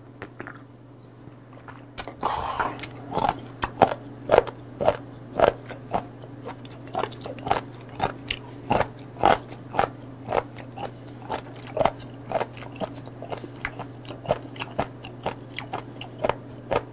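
Close-up chewing of raw sliced chotdae-godung whelk: a firm, crunchy bite repeating about twice a second, starting about two seconds in. A steady low hum runs underneath.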